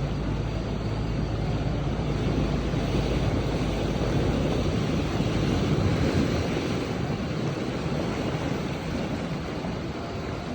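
Steady rushing of wind on the microphone and water from a moving boat, over the low hum of the boat's motor, which fades out about halfway through.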